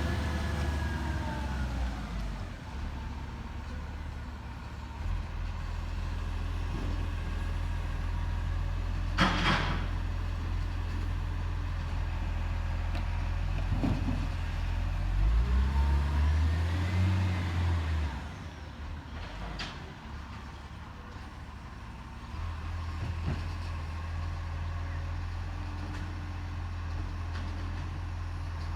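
Garbage truck's diesel engine running with a steady low rumble. It slows down at the start and revs up and falls back about fifteen seconds in. A short, sharp burst of noise comes about nine seconds in.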